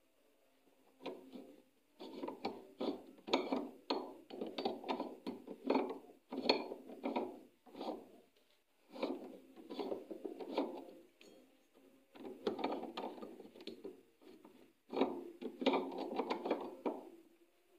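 Hand work on metal washing-machine parts: repeated scraping and rubbing strokes with small clicks, in bouts of one to several seconds with short pauses between.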